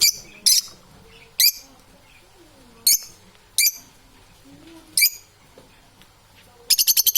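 Parrot giving short, shrill calls: six single calls spaced irregularly a second or so apart, then a rapid run of about seven near the end.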